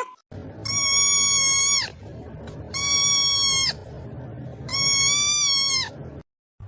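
Three long, high-pitched animal calls of about a second each, held at a steady pitch and dropping at the end of each, with a low hum between them.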